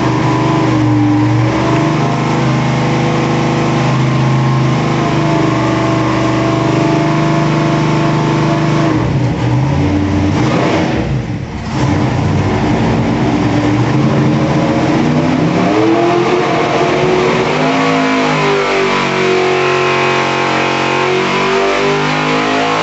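632 cubic-inch big-block Chevy V8 running loud on an engine dyno: it holds a steady speed, briefly drops off about eleven seconds in, then revs climb and hold at a higher, slightly wavering speed.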